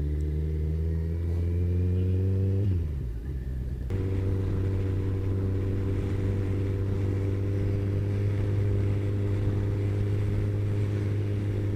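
Kawasaki ZZR1400's inline-four engine under way, its pitch slowly rising for the first few seconds, then dropping away briefly about three seconds in before it settles into a steady cruise with a rush of wind.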